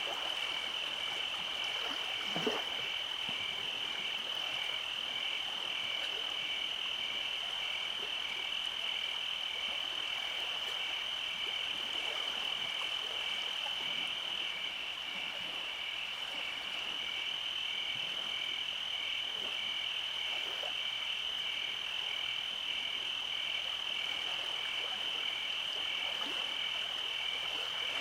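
Night chorus of calling insects and frogs: a steady high-pitched trill with a regular pulsing chirp beneath it, and scattered lower croaks. A single soft knock sounds about two and a half seconds in.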